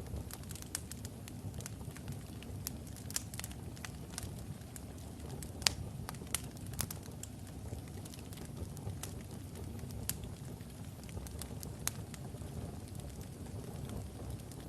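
Wood fire of burning logs in a fireplace: a steady low rumble of flames with scattered sharp crackles and pops, the loudest pop a little past the middle.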